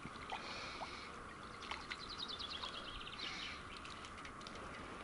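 A songbird singing one fast trill of short high notes that steps down in pitch in the middle, over faint steady outdoor background noise with a few faint ticks.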